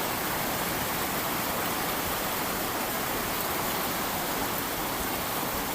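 Flash-flood water rushing in a torrent, a steady, even rush of water noise with no breaks.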